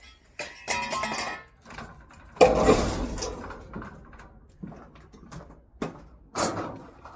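Scrap metal pieces clanking and banging as they are handled, with a loud ringing clang about two and a half seconds in and several lighter knocks after it.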